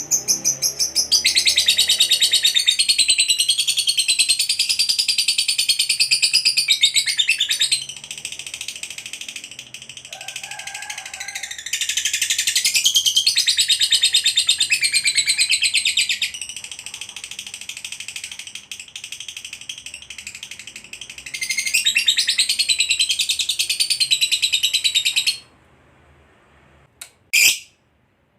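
Fighter lovebird singing its long, rapid, high-pitched chattering trill (ngekek panjang) in three long runs, with softer chatter between them and a few short chirps near the end.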